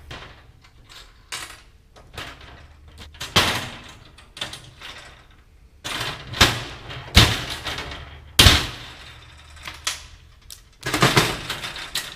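Heavy scissor-action pop rivet tool setting aluminium pop rivets into a bracket: a series of sharp snaps a second or a few seconds apart as each rivet mandrel is pulled and breaks off.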